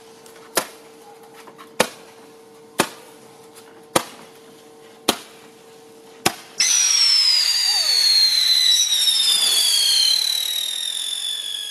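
Consumer fireworks going off: six sharp pops about a second apart, then, a little over halfway through, a loud shrill whistle whose pitch slowly falls and carries on to the end.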